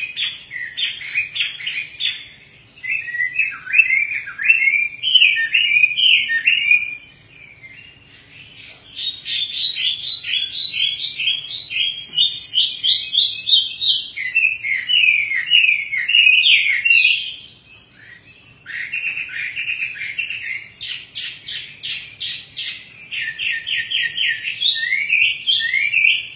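Chinese hwamei (Hwamei songbird) singing: phrases of fast repeated whistled notes that change pattern from phrase to phrase, broken by a few short pauses.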